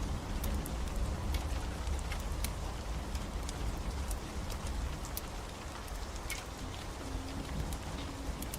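Steady rain falling, with a low rumble underneath and scattered sharp crackles and pops from a wood fire.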